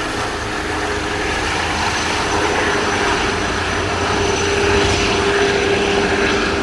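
Airbus H160 helicopter running: a steady turbine whine with a held tone over the even rush of the rotors, swelling a little about five seconds in.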